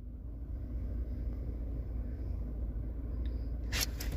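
Lada Vesta's engine idling, heard from inside the cabin as a steady low rumble. With the clutch released this is the idle in which the owner hears a faint knock, which he puts down to the clutch disc's centre bearing, since it goes away when the clutch pedal is pressed.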